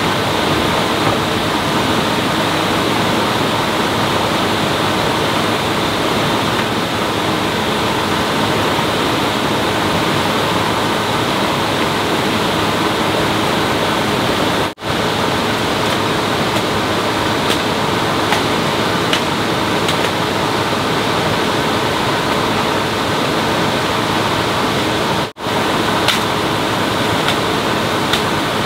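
Steady loud rushing of flowing water with a faint steady hum in it. It cuts out sharply twice, for a moment each time.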